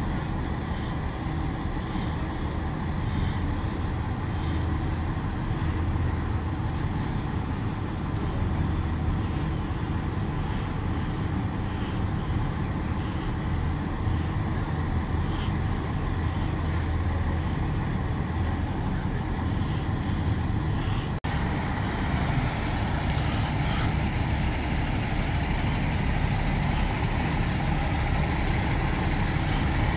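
Heavy vehicle engines running steadily amid street noise, a low continuous rumble. A brief dropout about two-thirds of the way through is followed by more hiss in the mix.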